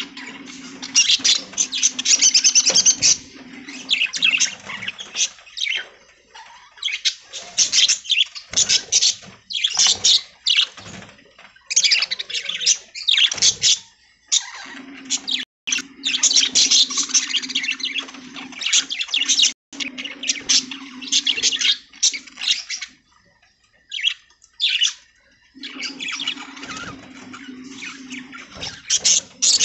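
A flock of budgies chattering and warbling in irregular bursts with short pauses. A low steady hum runs underneath for long stretches, coming and going.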